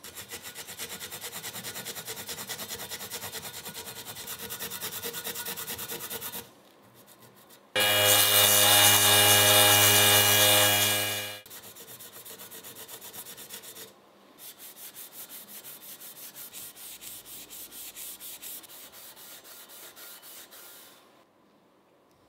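Rapid, evenly repeated rubbing strokes, in two long runs. Between them, for a few seconds in the middle, a louder steady humming machine sound.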